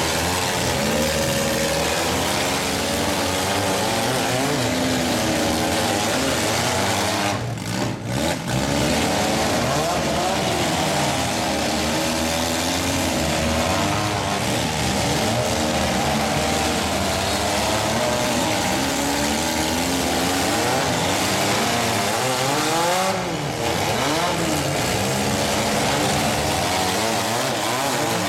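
Several compact-car demolition derby engines running and revving at once, a dense continuous din with pitches rising and falling as the drivers push and ram.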